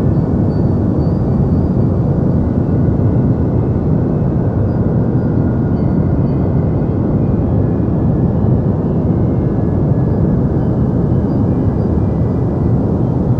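Steady deep white noise, a constant rush with most of its weight in the low end and little above a few thousand hertz, unchanging throughout.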